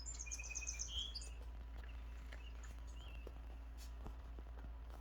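Faint bird chirps: a quick high trill and a few short tweets in the first second or so, then only a low steady hum.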